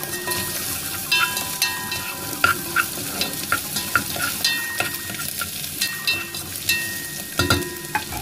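Cubed chicken sizzling as it fries in a pot, with a utensil scraping and clicking against the pot in irregular strokes as it is stirred.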